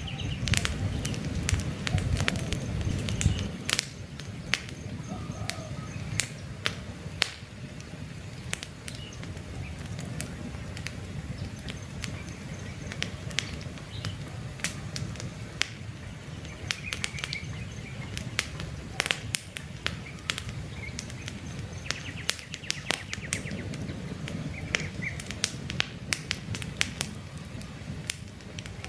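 Wood campfire crackling with frequent irregular pops over a low rush of flames, which is louder for the first few seconds. Faint bird chirps sound now and then in the background.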